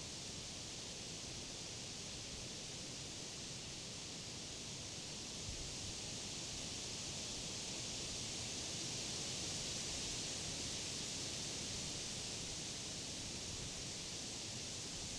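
Wind rustling through the leaves of tall summer trees and grass: a steady, even hiss that swells a little about a third of the way in.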